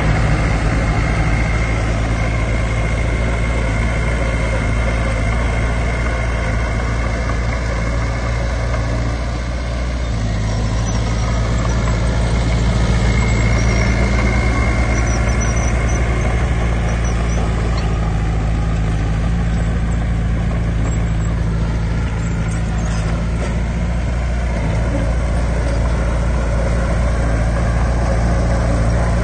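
Heavy diesel engine of earthmoving equipment running steadily, its low hum shifting slightly in pitch about ten seconds in.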